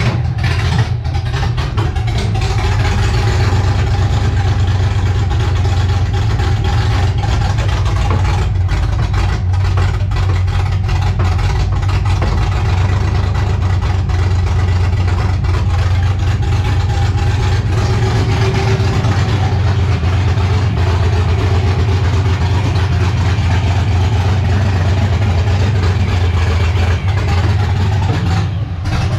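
LS V8 engine in a 1984 Oldsmobile Cutlass running steadily at a loud, somewhat steady idle. It is on a Holley Terminator X EFI that is not yet tuned for its large throttle body.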